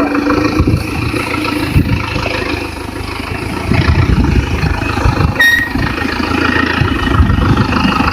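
Forklift engine running steadily, with clatter and a short beep about five and a half seconds in.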